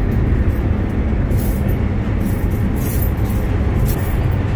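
Steady low rumble of an ICE high-speed train running, heard from inside the carriage, with a few brief rustles.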